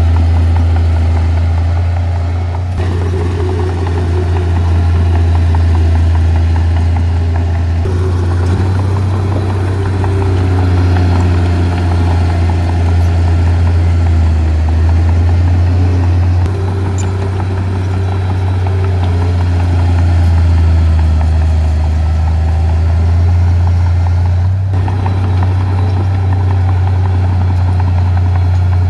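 Diesel engine of heavy earthmoving equipment running steadily with a deep drone, its sound shifting abruptly a few times.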